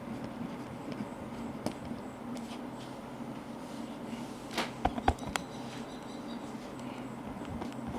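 Steady white noise with faint pen-on-paper writing sounds. A quick cluster of sharp knocks about halfway through, like a pen tapped or set down on the desk, is the loudest moment.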